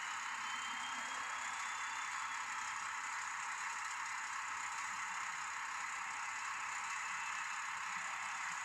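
N-scale model train running on the track: a steady small-motor whir with light wheel rattle, and a faint, slightly rising whine in the first couple of seconds.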